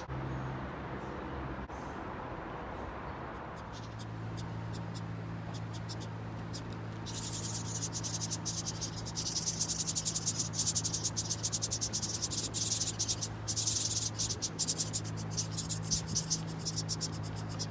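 Insects chirping in a fast, pulsing high-pitched trill that comes in about seven seconds in. Under it runs a low, steady hum that starts a few seconds in.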